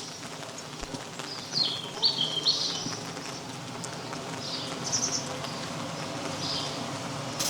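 Short high bird chirps in a few quick groups over steady rain patter; the loudest group comes about two seconds in.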